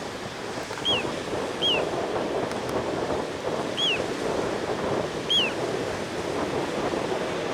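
Little ringed plover calling four times, each a short high whistle that rises briefly and drops, over a steady rush of wind or water.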